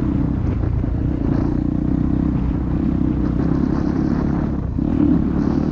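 Dirt bike engine running steadily under way, with a brief drop in engine sound a little before the end before it picks up again.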